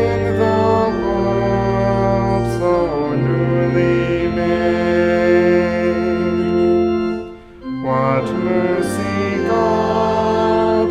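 Church organ playing hymn chords, each held for a second or two before moving to the next, with a brief break between phrases about seven seconds in.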